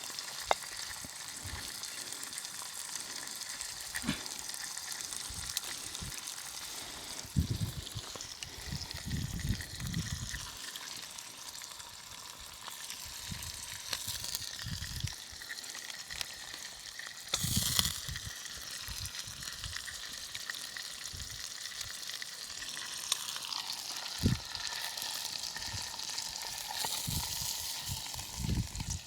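Oil sizzling steadily in a pan as fish fries, with a few soft knocks of handling scattered through.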